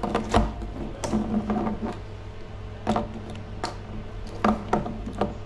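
Small plastic toys clattering and knocking on a hard surface: a scattering of separate sharp clicks and taps at uneven intervals.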